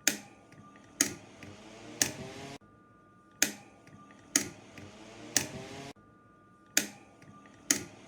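Control buttons on a high-power commercial fan clicking sharply, about one press a second in runs of three, with the fan motor humming between presses and stopping after each run.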